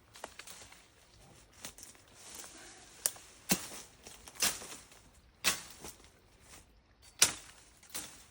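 Sharp snaps of bramble and brush being cut or broken during clearing, about one a second, with rustling of the tangled vegetation between them.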